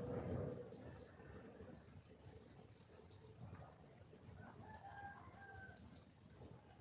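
Red junglefowl hen calling, faint, with the loudest call in the first half-second and a few shorter calls later, while small birds chirp high and thin in the background.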